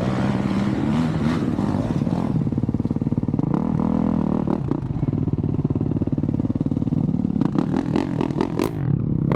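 Two-stroke 125cc dirt bike engine running under throttle, its pitch rising and falling. A quick run of clattering knocks comes near the end.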